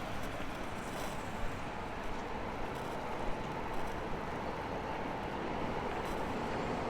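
Steady city street noise with road traffic running, and a few faint knocks.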